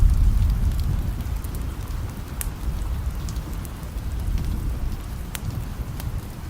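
Steady rain with a deep rumble of thunder that comes in loud just at the start and slowly fades away. A few sharp pops of a crackling wood fire sound over the rain.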